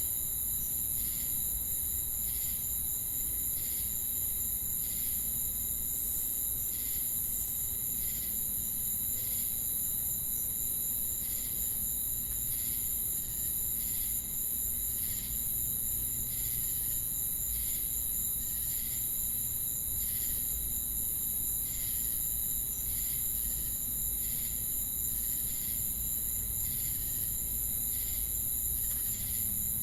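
Night insect chorus of crickets and cicadas: a steady, high-pitched buzzing trill that never breaks, with a shorter chirp repeating at an even pace, a little faster than once a second.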